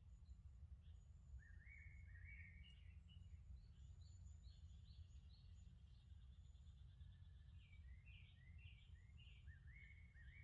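Faint songbirds singing: runs of short chirping notes, with a thin high whistle now and then, over a steady low rumble.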